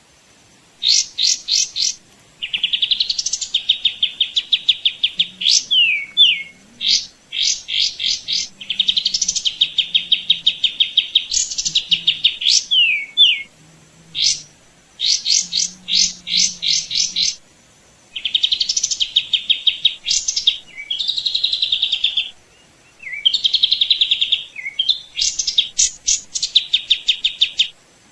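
A songbird singing: phrases of fast high chirps and rapid rattling trills, repeated over and over with short pauses between them.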